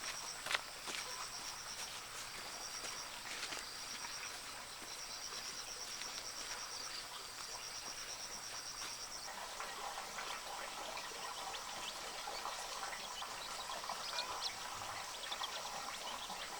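Insects trilling in repeated high-pitched bursts, which stop about nine seconds in, with scattered light clicks and rustles.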